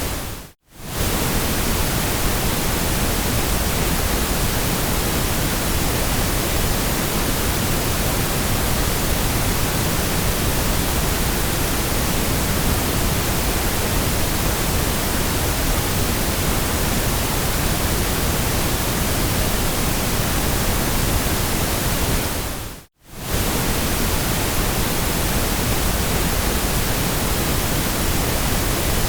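Steady ambient white noise, an even hiss spread across all pitches. It dips briefly to silence twice, just under a second in and again about 23 seconds in.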